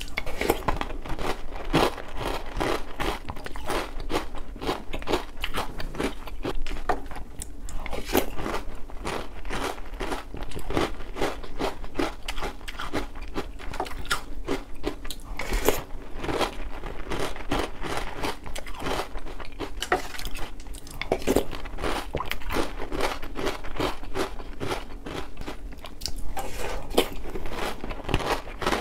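Oreo O's chocolate cereal in milk being chewed, a continuous run of crisp crunches.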